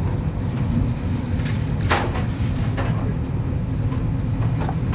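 A passenger train heard from inside the carriage while it runs: a steady low rumble with a few sharp clicks, the loudest about two seconds in.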